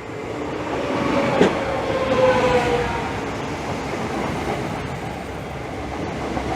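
Class 365 electric multiple unit running in past the platform: wheel and rail rumble that swells about a second in, with a sharp click and a brief tone that falls slightly in pitch.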